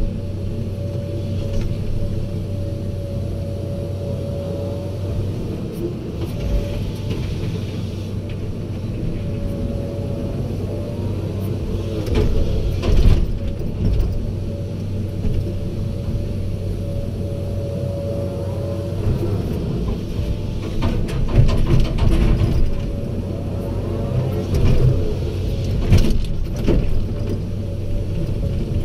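Excavator's diesel engine running steadily, with a higher whine that comes and goes and a few sharp clanks about halfway through and again near the end.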